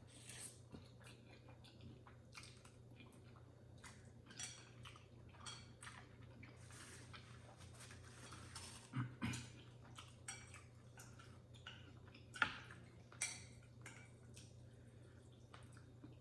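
A person chewing a mouthful of noodles, with wet mouth clicks and smacks at irregular intervals, the sharpest one about twelve seconds in. A steady low hum underneath.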